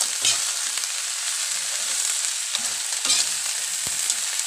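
Crawfish sizzling in a hot metal wok as they are stir-fried, with a metal spatula knocking and scraping against the pan several times.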